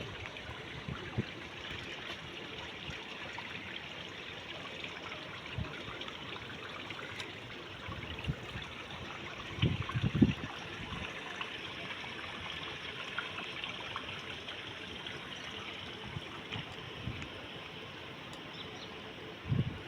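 Water trickling and running steadily, as in a small garden stream or pond water feature, with a few short low thumps about ten seconds in.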